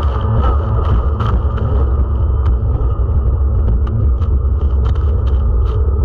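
Racing jet ski's engine running, a heavy steady rumble with short sharp clicks scattered through it.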